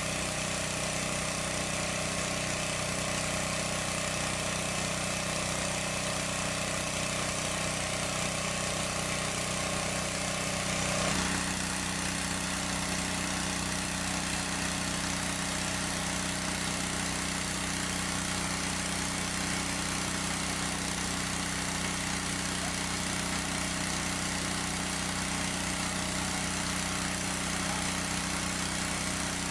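Small engine running steadily at a constant speed, its tone shifting slightly about eleven seconds in.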